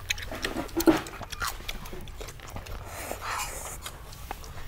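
A man eating, close to the microphone: wet chewing and lip smacking, with many short clicks, and a breathy exhale about three seconds in.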